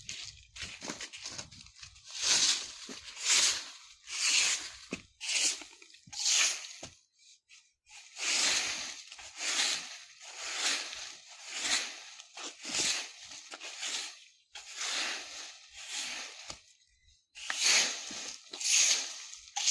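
Broom sweeping dry leaves on the ground: rustling, crunchy strokes about one a second, with two short pauses.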